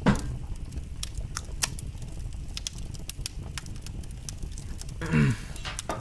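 Fireplace fire crackling, with irregular pops and snaps over a low rumble. A sudden falling swoosh comes right at the start, and a short sound falling in pitch comes about five seconds in.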